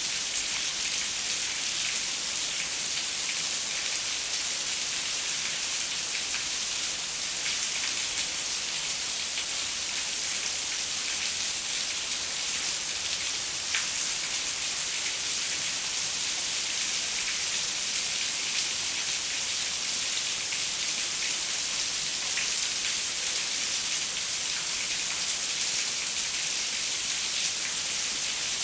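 Steady rain on a window pane: an even, dense hiss with scattered individual drop taps.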